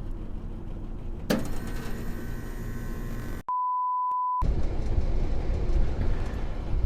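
Steady low machinery noise that changes abruptly after about a second, then a one-second pure-tone bleep, with all other sound cut out, about halfway through. Louder low rumbling noise follows.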